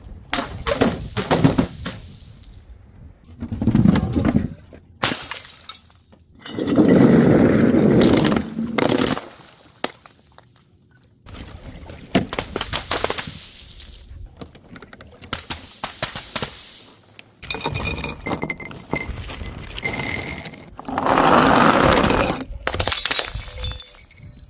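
Glass bottles smashing and shattering, one after another, a series of separate crashes with shards rattling and ringing.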